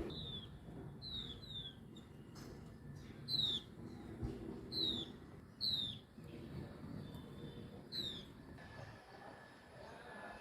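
A small bird calling: a series of short, high chirps, each gliding downward, about eight of them at uneven intervals, over a steady low background rumble.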